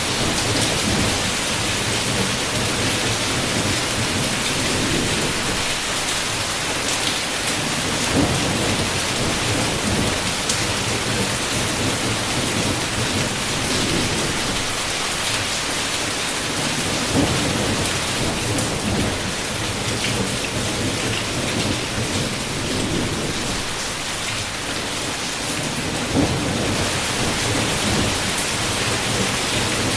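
Heavy rain pouring steadily on a window, with low thunder rumbling in slow swells that come and go.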